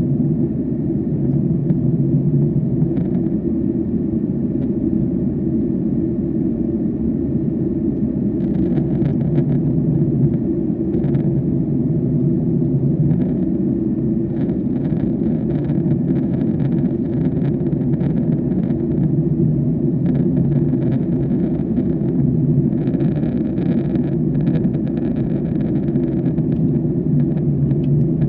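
Steady cabin rumble of an airliner in flight: engine and airflow noise heard from inside the passenger cabin, with faint clicks and rattles now and then.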